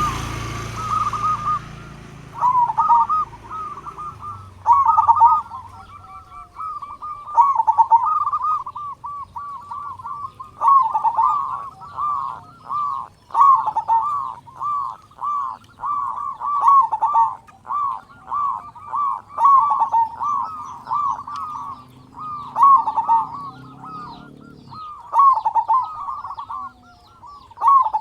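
Zebra dove (perkutut) cooing: rapid staccato cooing phrases around 1 kHz, repeated one after another with short gaps.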